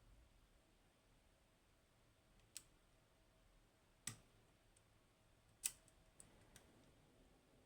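Small metallic clicks from a pick working the pins of a Goal Z Japanese pin tumbler lock: three sharper clicks about a second and a half apart, with a few fainter ticks among them.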